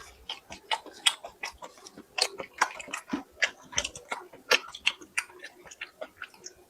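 A person chewing food close to the microphone, with a quick, irregular run of wet clicking mouth sounds.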